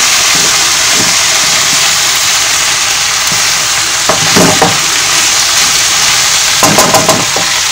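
Diced vegetables and meat sizzling steadily in a wok while being stir-fried with a wooden spoon. Short scrapes of the spoon against the pan come about four seconds in and again near the end.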